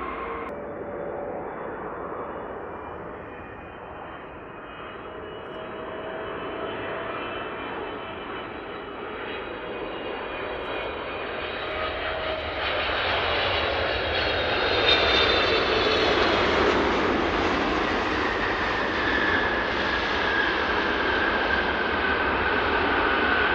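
Large jet airliner on approach to land, its engines whining and the noise growing louder as it comes nearer, with the whine falling in pitch from about two-thirds of the way in as it passes. An abrupt cut in the sound about half a second in.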